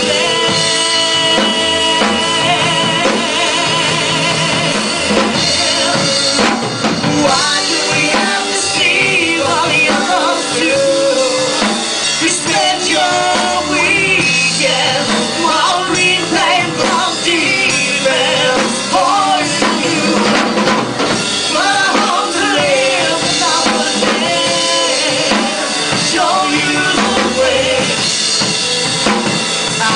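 A rock band playing live, with a full drum kit driving the beat under the instruments.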